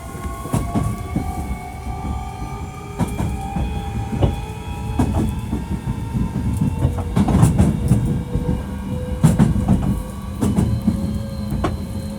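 Hankyu 1300 series train running, heard from inside the car: its Toyo IGBT VVVF inverter and traction motors whine in several tones that climb slowly in pitch, then hold steady. Under the whine run the low running rumble and irregular clacks of the wheels over rail joints.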